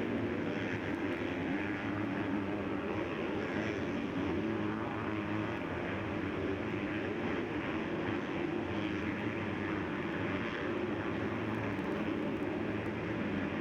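Motocross bikes racing on the track, their engines blending into a steady drone.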